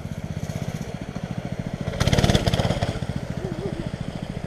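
Small single-cylinder mini bike engine running with an even pulsing beat, getting louder for about a second near the middle as the throttle opens.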